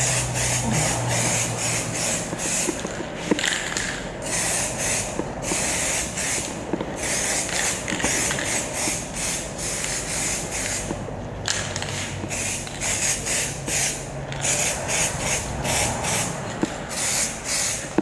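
2K aerosol spray can hissing in many short bursts, the nozzle pressed and released again and again as paint is dusted onto a motorcycle frame's tubes and brackets.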